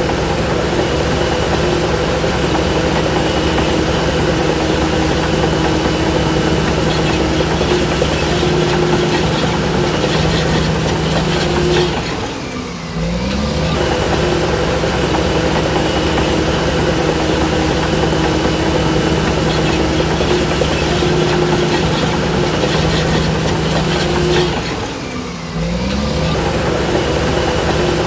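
Shantui DH17C3 bulldozer's heavy diesel engine running steadily under load. Twice, about twelve seconds apart, the engine note briefly drops and then climbs back.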